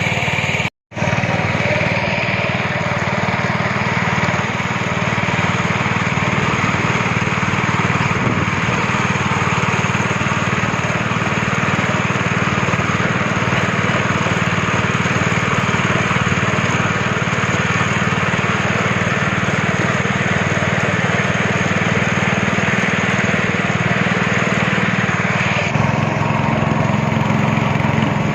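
Speedboat engine running steadily while the boat is under way, dropping out for an instant just under a second in.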